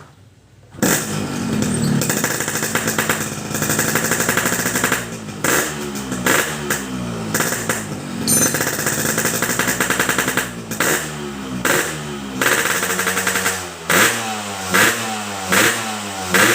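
Yamaha RX-King two-stroke single-cylinder motorcycle engine through a newly fitted Boban C33 aftermarket exhaust, starting about a second in, running, then revved up and down. Near the end it is blipped in short, sharp revs about once a second.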